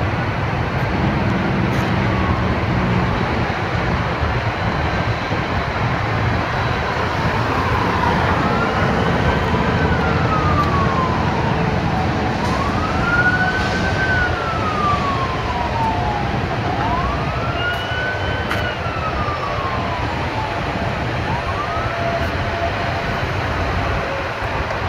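An emergency vehicle's siren wails in slow rising and falling sweeps, faint at first and clearest from about a third of the way in, then fading near the end, over a steady rumble of traffic.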